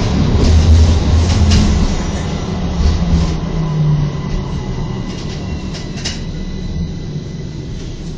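Istanbul T1 tram running along its rails: a low rumble with scattered sharp clicks, getting gradually quieter through the second half.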